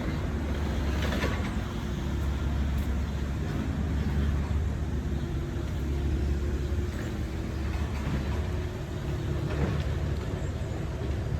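Road traffic: a steady low engine rumble from a motor vehicle running close by.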